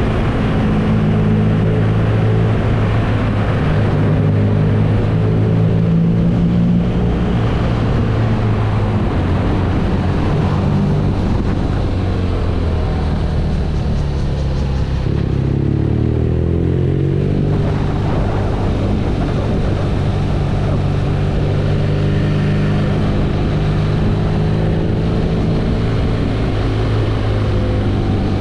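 BMW R nineT's air/oil-cooled boxer twin engine running steadily under way. About halfway through, its pitch falls and then settles on a new steady note.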